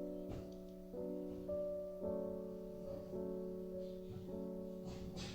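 Soft background piano music: a slow run of notes, a new one starting about every second.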